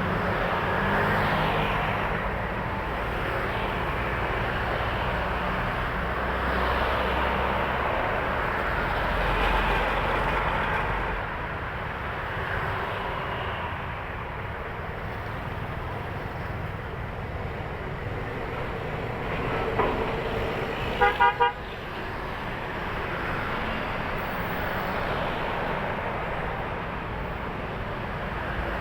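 Heavy highway traffic with trucks passing, a deep rumble of a heavy vehicle going by in the first half. About two-thirds of the way through, a vehicle horn gives three short, quick toots, the loudest sounds in the stretch.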